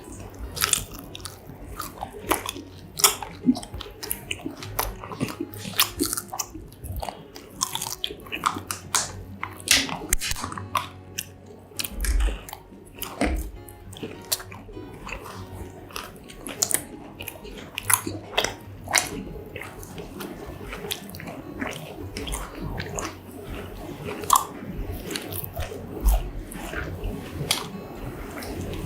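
Close-miked biting and chewing of fried, battered mozzarella corn dogs: irregular crunches of the crust and wet mouth clicks.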